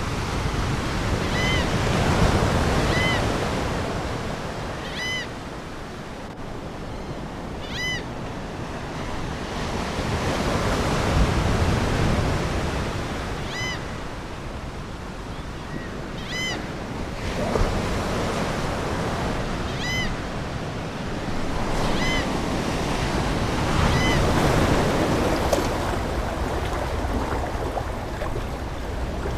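Ocean waves washing ashore in slow swells, with seagulls giving short calls about ten times, at irregular intervals.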